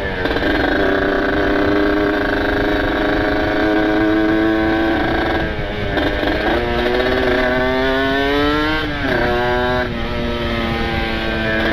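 Kawasaki Ninja RR two-stroke engine with a ported cylinder and aftermarket exhaust, ridden and pulling through the gears. The revs climb and hold, dip about six seconds in, climb steadily again and drop sharply near nine seconds at a shift.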